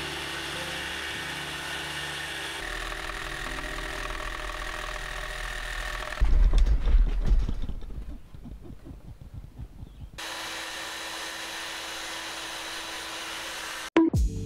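A power tool running steadily on wood, with a loud low rumble for about two seconds starting six seconds in. It then runs steadily again until it cuts off abruptly near the end.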